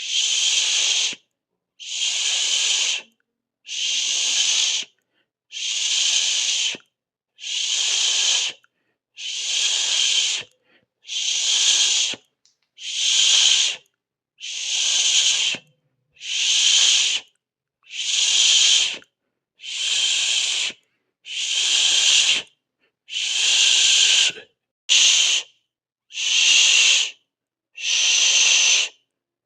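A mouth hiss, 'shh', repeated over and over: each hiss lasts a little over a second, with a short silence between, about one every two seconds. One hiss near the end is cut shorter.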